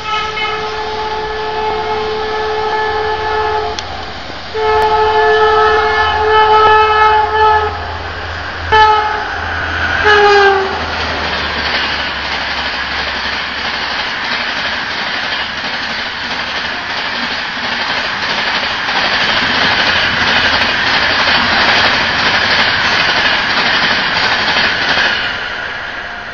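Indian Railways express train, the Mumbai Rajdhani hauled by a WAP-5 electric locomotive, sounding its horn as it approaches: two long blasts, then two short ones, the last falling in pitch as the locomotive goes by. The coaches then rush past at speed with a loud, steady rush of wheel and air noise and some rail clicks, which fades near the end as the train moves away.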